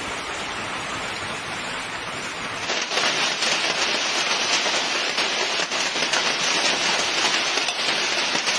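Heavy rain mixed with hail pelting down in a steady hiss. About two and a half seconds in it turns louder and brighter, with many sharp ticks of hailstones striking.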